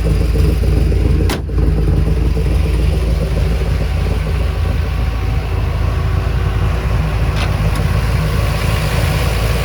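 A 427 side-oiler Ford FE V8 idling steadily and evenly, with a short click about one and a half seconds in.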